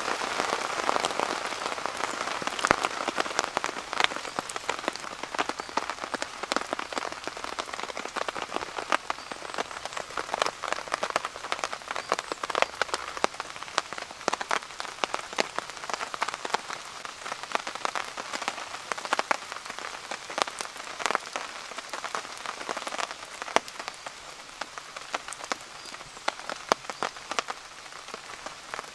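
Heavy rain falling through woodland, a steady hiss with many sharp, close drop hits, heard from under a canvas tent.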